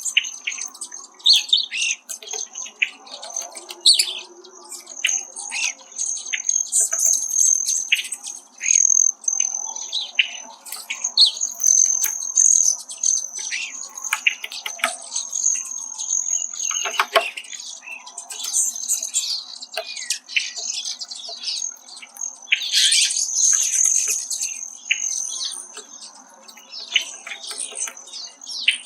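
Hairy Woodpecker at a suet feeder: many short, sharp taps and knocks of the bill against the wire suet cage, mixed with sharp call notes and softer chirps. A steady high-pitched hum runs underneath.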